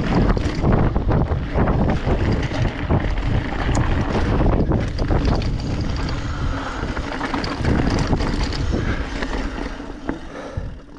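Wind buffeting the microphone over the rumble and rattle of a mountain bike riding over rough ground, dying down near the end as the ride slows.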